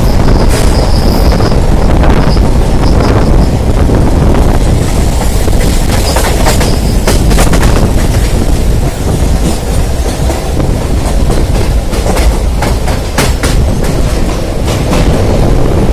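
Passenger train heard from on board, running at speed: a steady rumble with the clickety-clack of the wheels over rail joints. Thin, faint wheel squeal comes in the first few seconds and again around six seconds.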